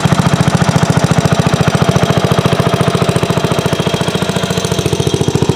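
Small engine of a vintage Garden Mark garden tractor running at a steady speed with a fast, even chugging beat.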